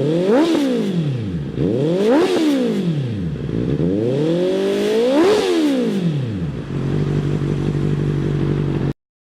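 2019 Honda CBR650R inline-four engine revved three times through a Dynamic DM-2 carbon aftermarket exhaust, each rev rising and falling quickly, the third a longer climb. It then settles into a steady idle and cuts off suddenly near the end.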